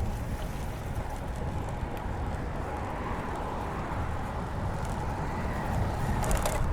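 Road bike riding on a paved bike path: steady tyre and wind noise with a faint steady hum, and a short burst of clicking near the end.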